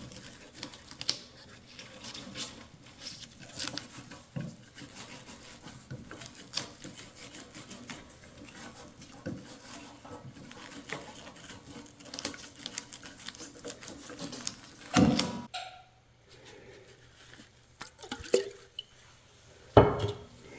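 Scattered light taps and clicks of small parts being handled on a workbench, with one louder knock about fifteen seconds in and another near the end.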